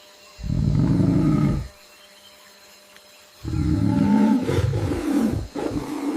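Low-pitched calls of a large animal: one call of about a second, then after a pause a longer run of several calls near the end.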